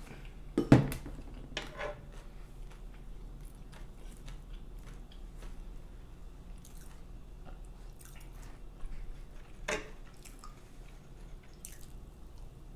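Chewing of syrup-soaked pancakes: soft, wet mouth sounds and small clicks, with a sharp knock less than a second in and two louder clicks later on.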